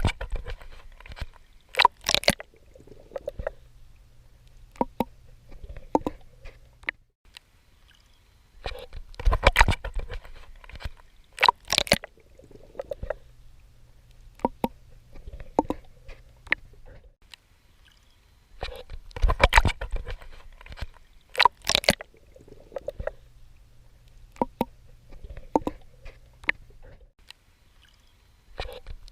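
Swimming strokes splashing and sloshing in ocean water. Pairs of louder splashes about two seconds apart come back roughly every ten seconds, with softer gurgling and a low rumble between them.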